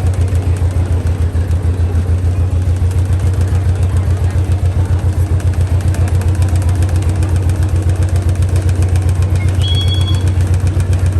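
Slow-running vehicle engine with a deep, steady, rapidly pulsing beat.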